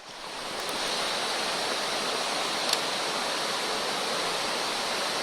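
Steady rushing of a mountain stream running high after a typhoon. It fades in over the first second, and there is one faint click about two and a half seconds in.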